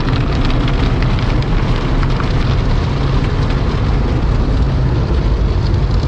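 Automatic car wash working over a car: a steady, loud rushing noise with a deep rumble underneath.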